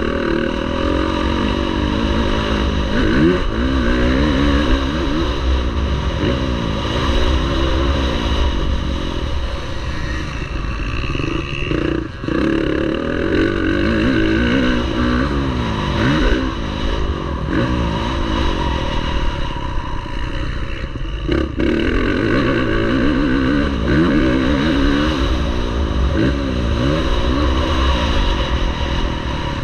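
Motocross bike engines revving up and dropping back again and again as they race, several at once, their rising and falling pitches overlapping.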